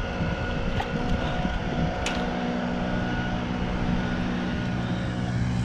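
Steady drone of an engine, with even tones that hold level throughout, over a low rumble. There is a single small click about two seconds in.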